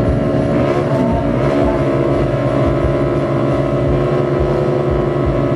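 Engines of 200cc fuel-injected underbone drag motorcycles running steadily at the start line, waiting to launch.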